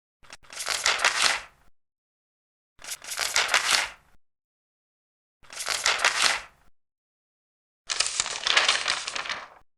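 Large paper pages being turned one at a time, each a crisp papery rustle about a second and a half long. Four turns, about two and a half seconds apart, with silence between them.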